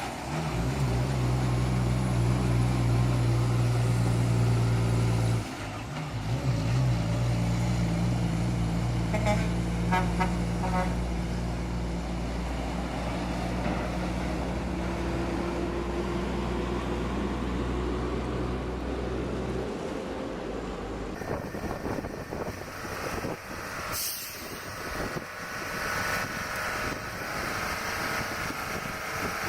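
Heavy truck engines running with a steady low drone, which changes about 5 seconds in and ends about 20 seconds in. Rougher, noisier vehicle sound follows.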